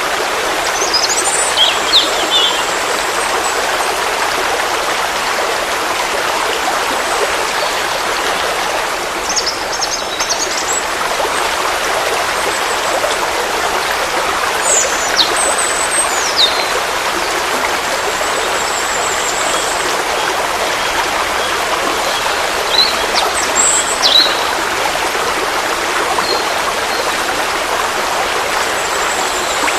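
Forest stream flowing steadily, an even rush of water. Small birds call now and then over it, with short, high chirps and trills coming several times.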